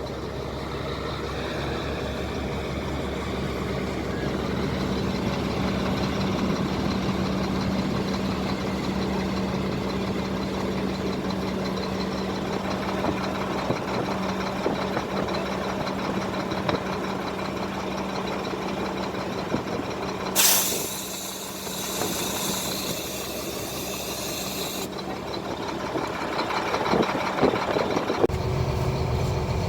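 Truck engine running steadily, then about two-thirds through a sudden hiss of air lasting about four seconds, typical of the truck's air brakes, before the engine note drops lower near the end.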